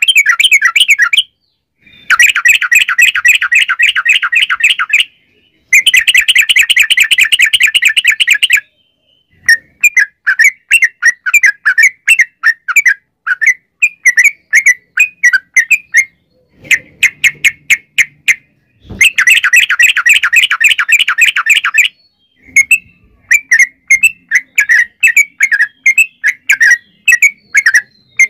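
Yellow-vented bulbul (trucukan) singing: long, rapid chattering trills of about three seconds each, alternating with runs of separate short bright notes.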